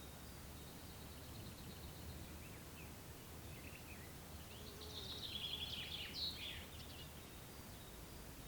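A songbird sings a quick phrase of rapid, varied high notes about halfway through, over a faint steady background of outdoor noise, with fainter bird notes before it.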